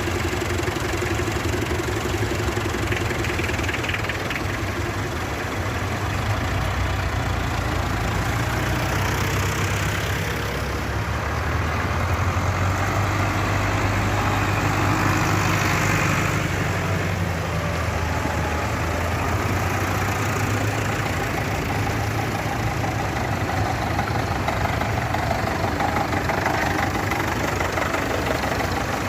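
Tractor diesel engine running steadily, briefly a little louder about halfway through.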